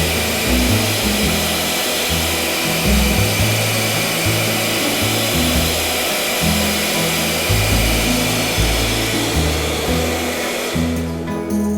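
Small battery-powered vacuum cleaner running with a steady hiss that fades out about eleven seconds in. Background music plays under it throughout.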